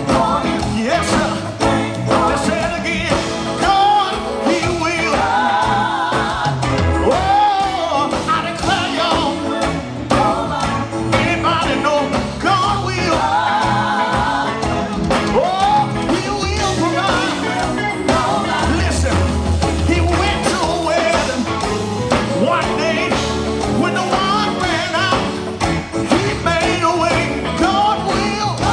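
Live gospel quartet music: singing with wavering, held notes over a band of electric guitar, bass and keyboard.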